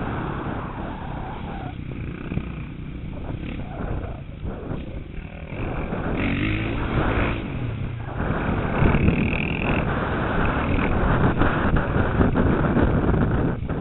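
KTM 450 SX motocross bike's engine revving up and down under riding, with wind buffeting the helmet-mounted microphone. It gets louder about halfway through.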